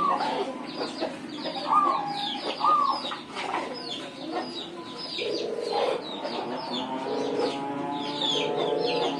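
Zebra dove (perkutut) cooing: a couple of arched coos in the first few seconds, then lower rolling coos through the second half, with small birds chirping throughout.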